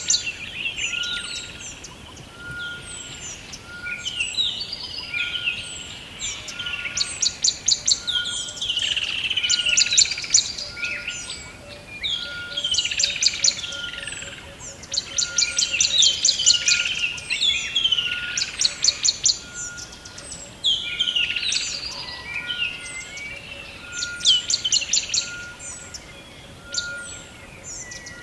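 Several birds singing together: a rapid high trill repeats every few seconds among varied chirps and whistled glides. A short, even note repeats about once a second behind them.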